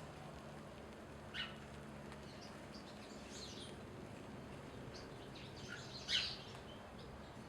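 Small birds giving a few short, separate chirps, the loudest about six seconds in, over a faint steady low hum and background hiss.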